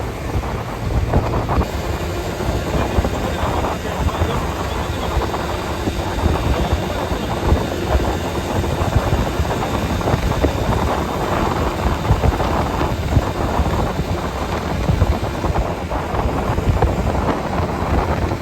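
A vehicle driving along a road: a steady, loud rumble of engine and tyre noise, with wind buffeting the microphone.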